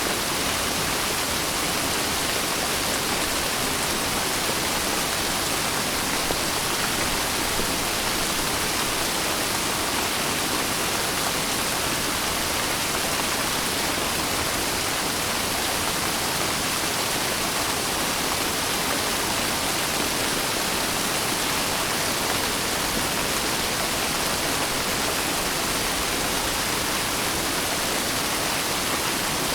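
Steady rain, a dense even hiss with no separate drops or thunder standing out.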